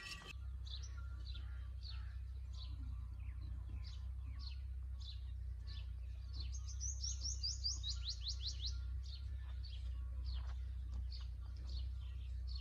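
Small birds chirping, short falling chirps about twice a second, with a quick run of about a dozen falling notes around the middle, over a steady low rumble.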